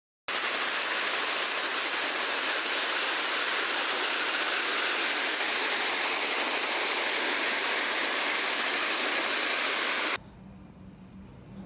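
Loud, steady rushing noise that starts abruptly and cuts off suddenly about ten seconds in, leaving a much fainter low hum.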